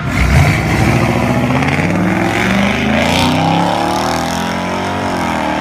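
A car engine accelerating hard, its pitch climbing steadily for about four seconds, dipping briefly near the end and then climbing again.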